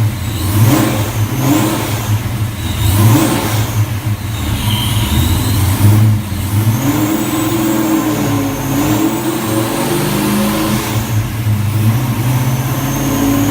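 Supercharged 408 cubic-inch Windsor V8 in a 1992 Fox Body Mustang, running through a 3-inch X-pipe and Mac mufflers. It is revved up and down in several blips, then held at a steadier, slowly rising note, with a thin high supercharger whine climbing over it.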